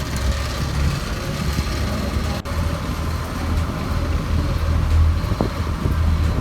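Passenger ferry's engine running steadily under way, a deep steady rumble with an even hiss over it. The sound drops out for an instant about two and a half seconds in.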